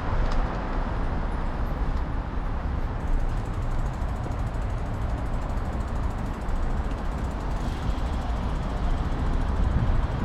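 Steady city street traffic noise with a low rumble, heard from a moving bicycle.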